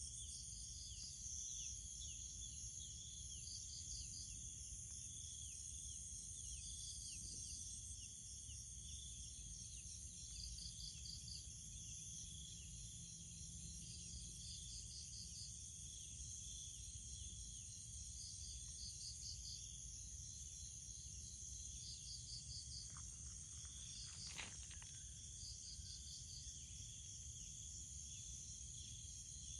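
Chorus of insects, crickets among them, trilling steadily and high. A pulsed call repeats every two to three seconds over short repeated chirps. A single faint click comes about 24 seconds in.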